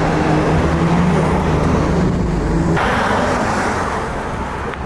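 A car engine running at a steady pitch, with traffic noise around it. The engine's steady hum cuts off suddenly about three seconds in, leaving a hissy noise.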